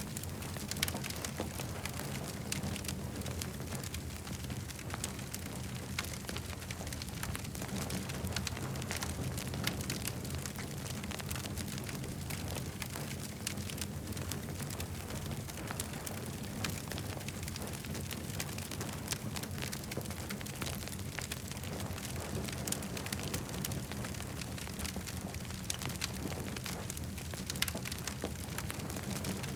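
Campfire crackling: a dense, irregular stream of small snaps and pops over a steady low rumble.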